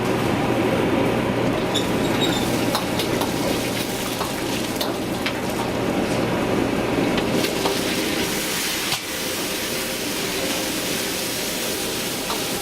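Food frying and sizzling in a hot pan, with occasional short metal clinks of utensils over a steady low kitchen hum.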